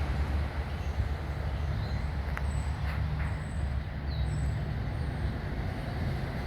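Steady low outdoor rumble, with faint short high-pitched bird chirps scattered through it and a couple of faint clicks.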